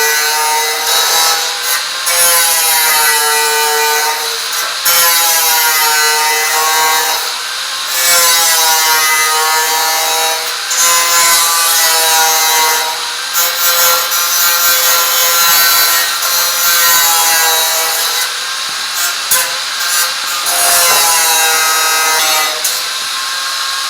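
Power tool running under load in repeated passes, its motor pitch sagging and recovering every two to three seconds, with short breaks between passes.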